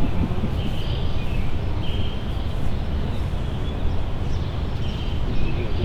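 Engine running steadily, a low, even rumble, with faint short high-pitched sounds coming and going above it.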